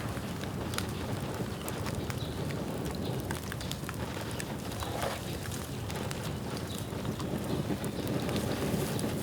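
Bamboo bonfire burning: a steady rumble of flames with scattered sharp crackles from the burning bamboo.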